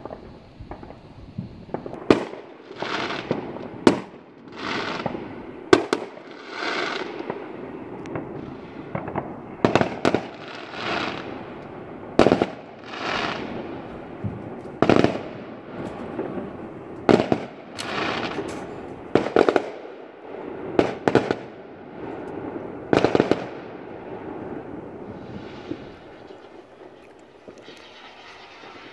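Fireworks display: a string of sharp bangs every second or two, most followed by a hiss lasting about a second, thinning out near the end.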